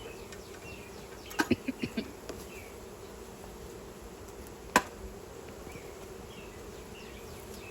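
Honeybees buzzing steadily around a hive, a constant low hum. A quick run of sharp clicks comes about a second and a half in, and a single louder click near the middle.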